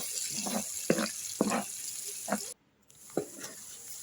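Chopped onion and whole garam masala sizzling in hot soybean oil in a pan, with a few short scrapes or knocks of a spatula as the spices are stirred. The sound cuts out briefly a little past halfway.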